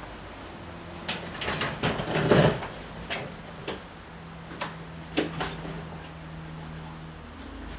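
Wooden knocks and clunks as a minibike is rolled backwards down a homemade wooden loading ramp by hand. A cluster of them comes about a second to two and a half seconds in, then a few single knocks.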